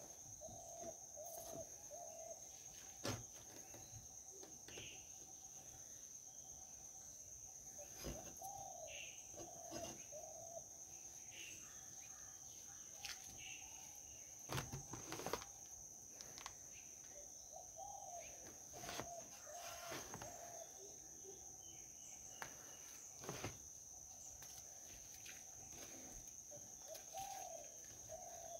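Quiet outdoor background with a bird calling short runs of three or four arched notes every several seconds, over a steady high-pitched tone. Scattered sharp knocks and taps come from hands working the glass and rubber seal of a three-wheeler's rear window, the loudest a pair about halfway through.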